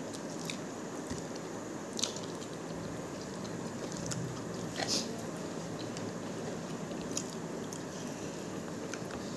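Close-miked eating sounds of a man eating rice and chicken chilli by hand: chewing with a few sharp, wet mouth smacks, the loudest about two and five seconds in, over a steady background hiss.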